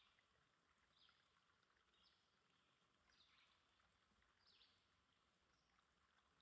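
Near silence, with a faint bird chirping about once a second.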